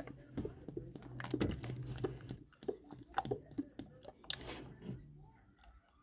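Hands handling objects: scattered light clicks and knocks with some crinkling, over a low hum, and a short rustle about four and a half seconds in.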